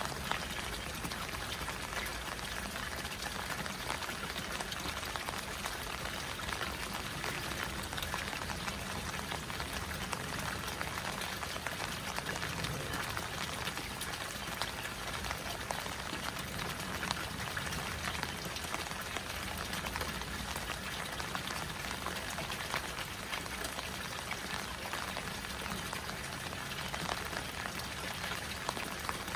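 Steady rain falling on a garden koi pond, many small drops hitting the water surface, mixed with water pouring into the pond from an inlet spout.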